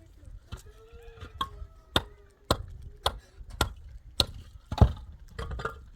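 A series of sharp knocks or chops, about two a second, starting about two seconds in, with the loudest one near the end.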